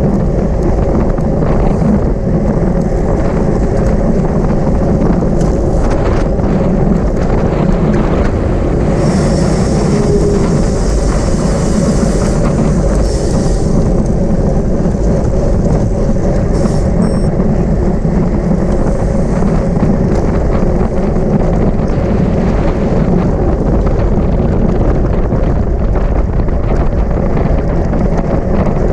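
Wind rushing over the microphone of a camera riding on a racing bicycle at speed: a loud, steady low rumble. A brighter hiss joins in for a few seconds around the middle.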